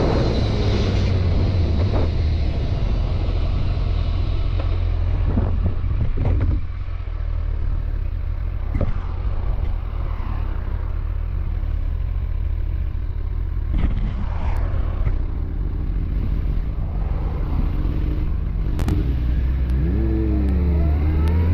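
Motorcycle engine running at a steady speed while riding, with wind rushing over the microphone. Near the end the engine note dips and then climbs as the engine revs up.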